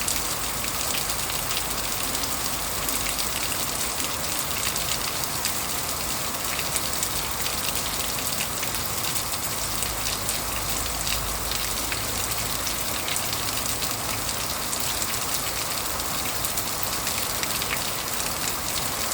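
Heavy rain falling: a steady hiss dotted with many small drop impacts. A low rumble rises briefly about ten seconds in and fades again a few seconds later.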